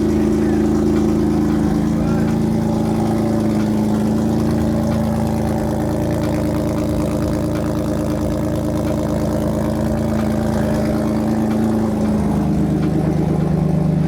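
BMW E36 engine running steadily through a newly fitted ISR Performance aftermarket exhaust, held at an even engine speed, its tone dropping slightly about twelve seconds in.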